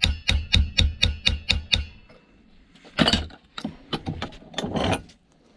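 Hand hacksaw cutting metal scrap: about four quick strokes a second with a metallic ring for about two seconds, then after a short pause a few longer, harsher strokes.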